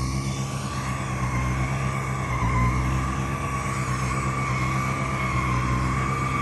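Snow Joe 100-volt two-stage battery snowblower running steadily while clearing deep snow: a steady electric whine over a low hum, wavering slightly in pitch.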